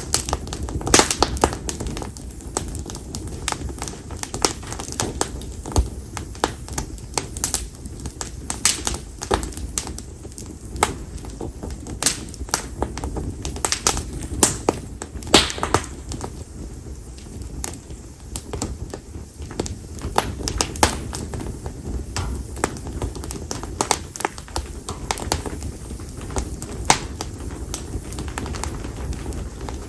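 Bonfire of split konara (Japanese oak) firewood crackling, with frequent sharp, irregular pops over a steady low rumble.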